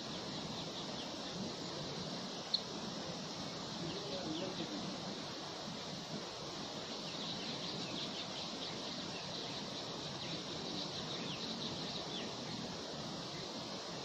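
Steady outdoor wind hiss with faint, quick, high bird chirps, mostly in the second half. A single sharp click about two and a half seconds in is the loudest sound.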